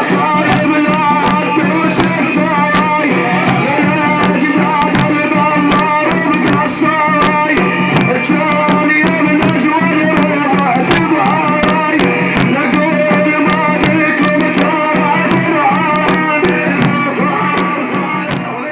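Manqaba praise chanting: voices singing over rapidly beaten frame drums, fading out near the end.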